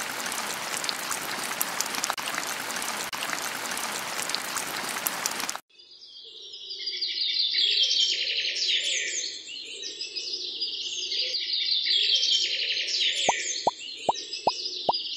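Rain sound effect, a steady hiss of rainfall that cuts off suddenly about five and a half seconds in. A flock of birds chirping rapidly follows. Near the end comes a quick run of short rising cartoon plop sound effects, about two or three a second.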